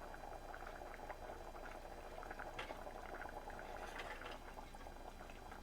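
A pot of oxtail stew with beans simmering: a faint, steady bubbling with small scattered pops.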